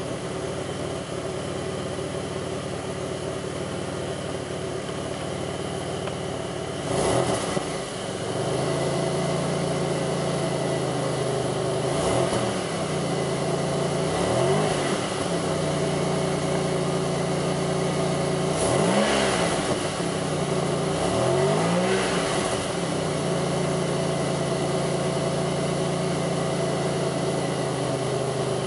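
2002 Pontiac Grand Prix's 3800 V6 idling, then blipped several times with short rises and falls in engine speed. After the first blip the idle note steps up and holds steadier and louder. The owner reports that this engine idles rough and bogs.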